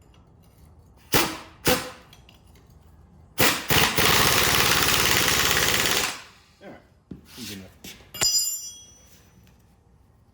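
Impact wrench on a nut: two short blips a little after a second in, then a run of rapid hammering for about two and a half seconds that tails off into rattles. A sharp metallic clink that rings briefly comes near the end.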